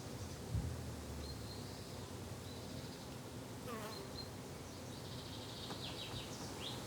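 Flying insects buzzing steadily in a low hum, with a few short high bird chirps over it and a single low thump about half a second in.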